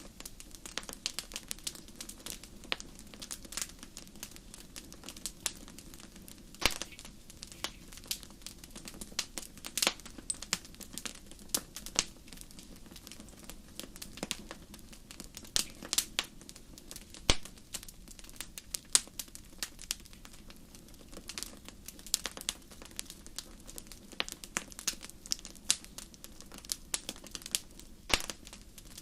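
Wood fire crackling in a fireplace: a dense, irregular run of sharp pops and snaps over a low steady rumble of the flames.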